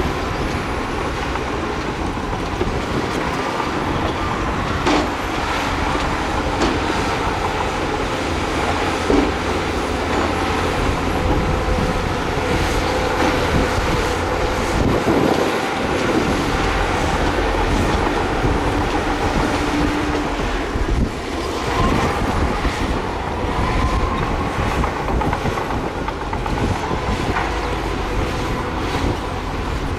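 Crawler bulldozer working: its diesel engine running under load while the steel tracks clank and squeal, with scattered metallic knocks.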